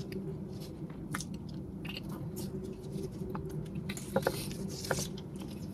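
Close-up chewing of a sticky rice cake, with small wet mouth clicks and squelches. A bit past halfway, a brief papery crinkle as the dried leaf wrapper is peeled back, over a low steady hum.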